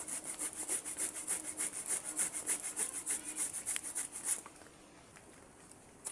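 Hand saw cutting through wood in quick, even back-and-forth strokes that stop about four and a half seconds in.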